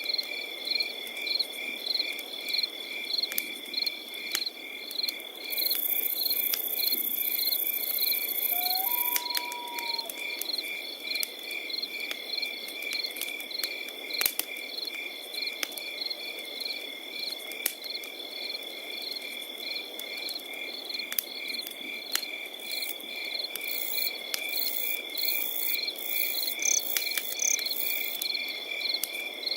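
Crickets chirping in a steady, even pulse over a continuous high trill, with scattered sharp crackles from a campfire and one short whistled note about nine seconds in.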